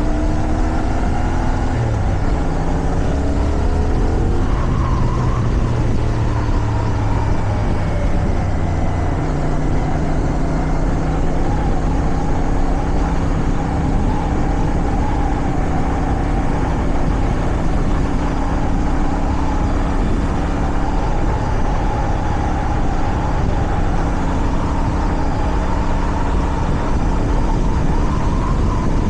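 Motorcycle engine pulling, its pitch climbing and shifting over the first few seconds, then running steadily at cruising speed. Wind rushes over the microphone throughout.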